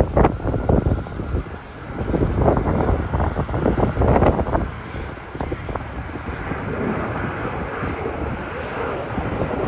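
Jet airliner engines running at a distance, a steady rumble and hiss, with gusts of wind buffeting the microphone during the first half.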